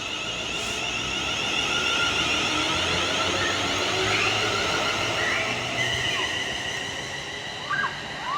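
Class 350 Desiro electric multiple unit pulling away from the platform, its traction equipment whining with steady high tones that build up and then ease off as it leaves.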